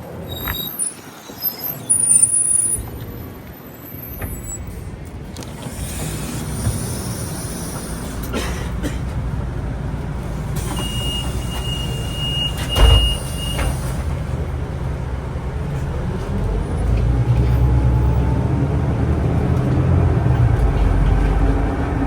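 Ride inside a city bus. Rattles and squeaks come first, then a low rumble builds. A steady high beep lasts about three seconds near the middle, with a thud toward its end. After that the bus pulls away, its drive note rising in pitch as it speeds up.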